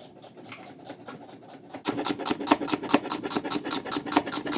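Knife chopping vegetables on a cutting board in quick, even strokes, about six a second, faint at first and much louder from about two seconds in.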